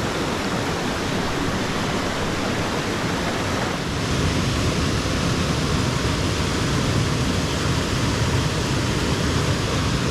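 Small moorland stream rushing and splashing over rocks in a steady wash of water noise. It grows a little louder and deeper from about four seconds in.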